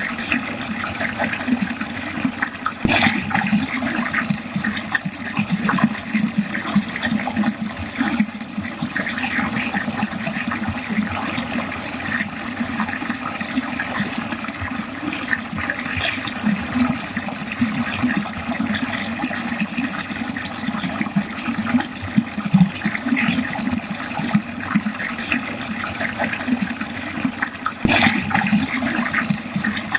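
Water running steadily down a drain, a continuous gurgling flow with a few sharper splashes.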